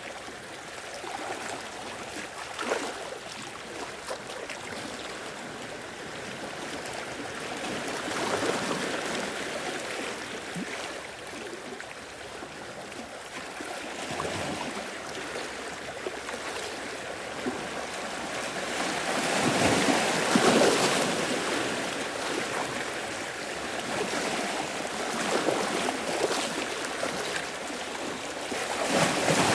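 Waves breaking and washing against a rocky shore, the surf swelling and ebbing, with a larger wave about two-thirds of the way through and another near the end.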